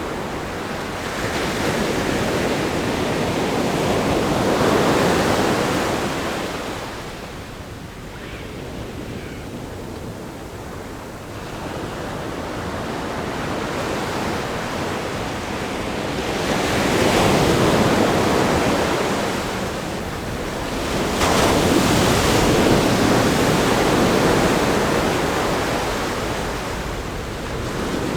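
Ocean waves breaking against a rock groin and washing up a sandy beach: a continuous surf rush that swells with breakers about five seconds in, again around seventeen seconds and at twenty-two seconds, and eases in between.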